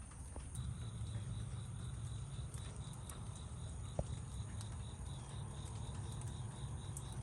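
Light rain falling outdoors, with scattered drip ticks over a steady low hum. An insect, likely a cricket, chirps in an even, rapid high-pitched pulse from about half a second in, and there is a single sharp tick about four seconds in.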